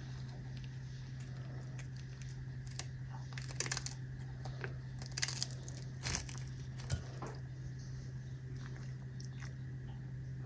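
A cat biting and crunching dried capelin, a few crisp crunches bunched through the middle, over a steady low hum.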